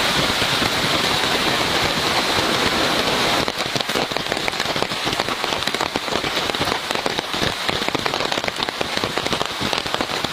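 Heavy rain pouring steadily, with a dense patter of drops striking a surface that grows sharper and thicker a few seconds in.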